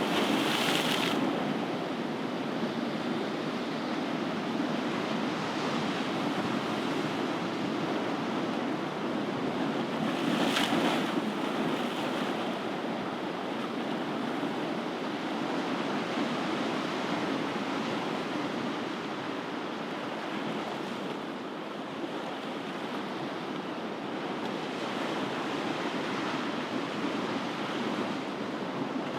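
Ocean surf: waves breaking and washing in a continuous rushing hiss, with a brighter surge at the very start and another about ten seconds in.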